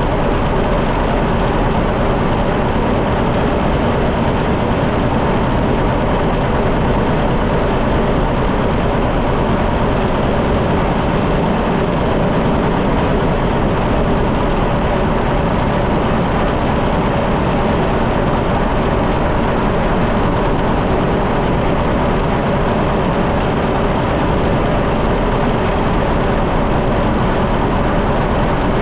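John Deere 730 tractor's two-cylinder engine running steadily while the tractor is driven along the road.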